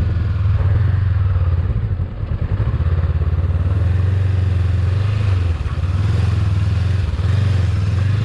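Honda CB500X's parallel-twin engine running under way, its note dropping briefly three times, about two, five and a half and seven seconds in.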